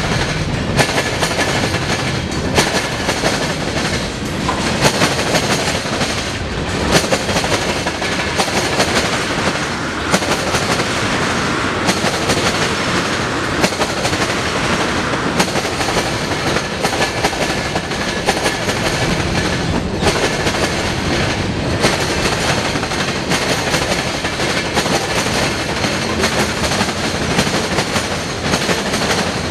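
Freight cars passing close by at speed: a steady rumble of steel wheels with a rapid, irregular clickety-clack as they strike rail joints and the crossing diamond.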